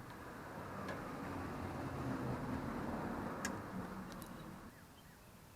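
A vehicle passing by, its engine and tyre noise swelling and then fading away over about four seconds, with a couple of sharp clicks, one near the start and one in the middle.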